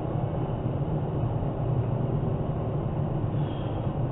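Steady low rumble of car road and engine noise, heard from inside the car's cabin.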